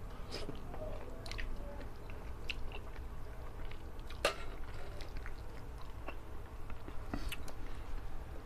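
A person chewing curried fish-head meat eaten by hand, close to the microphone: wet mouth clicks and smacks as fingers are sucked clean, with a sharper click about four seconds in.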